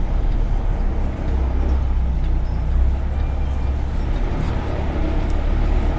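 Semi truck's diesel engine running steadily at low speed while the truck maneuvers, slightly stronger between about one and three seconds in.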